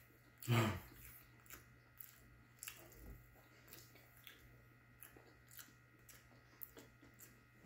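A person chewing a fried chicken sandwich with the mouth closed: faint, scattered small wet clicks of chewing, with a short hum of the voice about half a second in.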